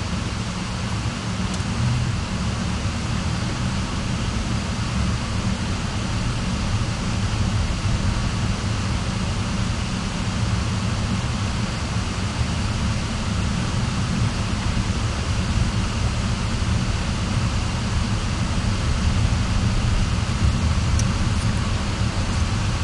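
A car driving: a steady low rumble of engine and road noise with a wash of hiss over it.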